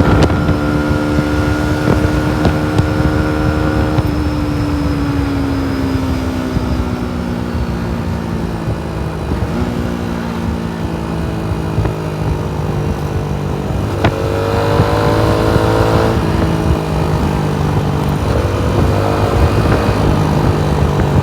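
Yamaha MT-125's single-cylinder four-stroke engine while riding, heard from the rider's position. It holds a steady note, falls in pitch for several seconds as the bike slows, then runs lower and climbs again about two-thirds of the way through as it accelerates.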